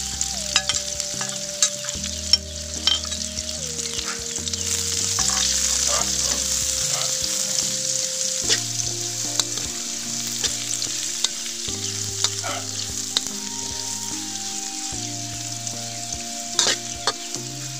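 Chopped lemongrass, chillies and kaffir lime leaves sizzling in hot oil in a metal wok, stirred with a metal spatula that scrapes and clicks against the pan now and then. The aromatics are being fried until fragrant.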